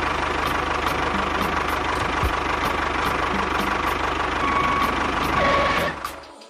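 An engine running steadily with a rapid, even beat, dying away near the end.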